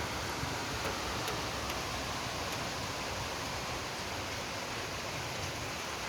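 Steady hiss of rain falling during a thunderstorm, with a few faint ticks; no thunderclap.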